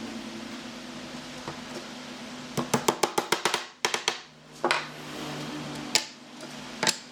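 Wooden knocks: a quick run of about ten sharp taps, then three single knocks spaced about a second apart, over a low steady hum.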